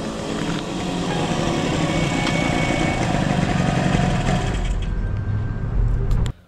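1972 Yamaha DS7's two-stroke twin running as the bike rides up and slows to a stop, then idling. The sound cuts off suddenly near the end.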